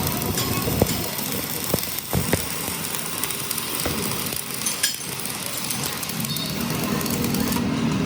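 Engines running steadily, with a handful of sharp knocks in the first five seconds.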